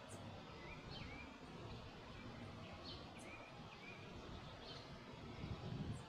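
Birds calling at a lagoon: short chirps, some with a quick downward then upward slide, about one a second, over a faint low rumble of outdoor background noise.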